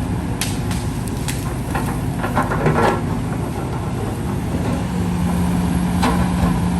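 Heavy earthmoving machine's diesel engine running steadily under load, with a few metallic knocks and a short burst of clanking about two and a half seconds in.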